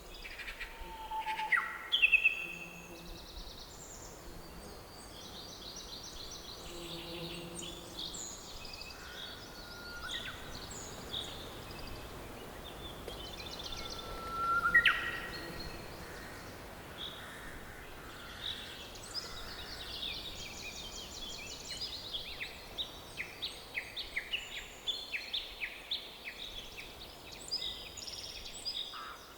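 Several songbirds singing and calling in a forest: chirps, rapid trills and whistles over a faint steady hiss. There is a louder rising whistle about halfway through, and the chirping grows busier near the end.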